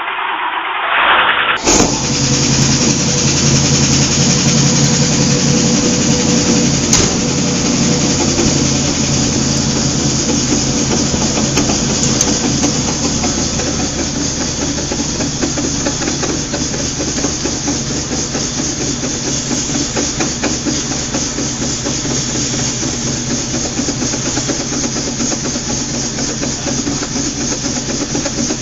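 1961 Buick LeSabre's V8 catching about two seconds in on a cold start after months of sitting, then running steadily at idle with a hissy exhaust note.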